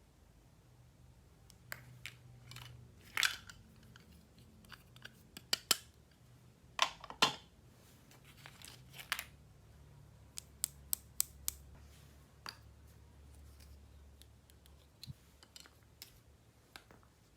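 Toy packaging and plastic playset pieces being handled during an unboxing: irregular clicks and taps with a few short rasps, and a quick run of clicks about ten seconds in.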